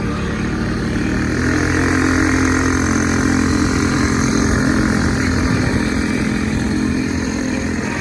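Small motorbike engine running steadily, its pitch stepping up slightly about a second and a half in and then holding level.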